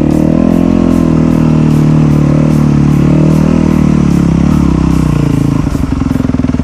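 Enduro dirt bike engine running at a steady speed, then easing off toward idle about five and a half seconds in.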